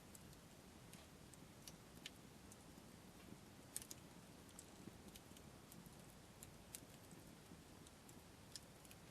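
Wood fire crackling quietly, with sparse, irregular sharp pops and ticks from the burning wood, the loudest about four seconds in.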